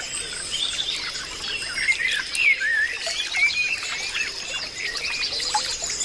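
Many birds chirping and calling at once, short overlapping chirps and warbles in a dense chorus.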